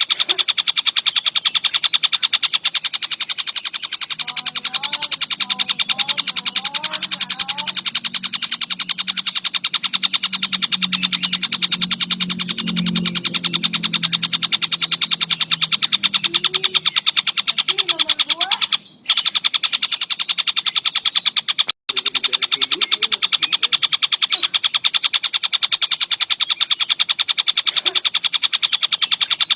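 Tengkek buto kingfisher giving a long, unbroken stream of rapid, harsh, repeated high calls. The stream breaks off for an instant twice in the second half.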